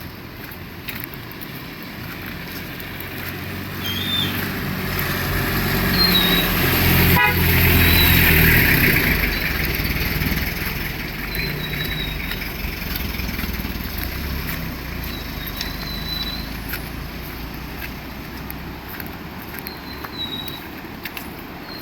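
A motor vehicle drives past on a wet road. Its engine grows louder to a peak about eight seconds in, then fades away, over a steady hiss of rain.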